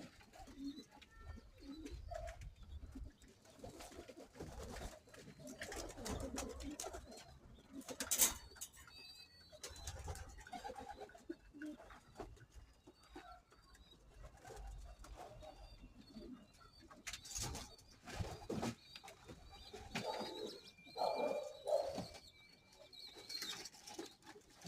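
Homing pigeons cooing softly in a loft, with a few sharp knocks and faint high chirps.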